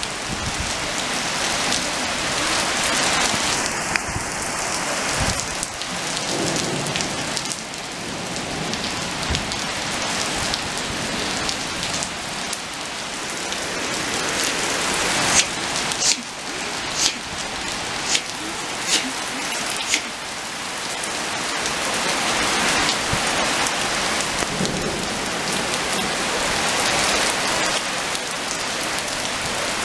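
Rain falling steadily on wet asphalt, an even hiss of many drops. About halfway through, a handful of sharp close taps stand out, spread over a few seconds.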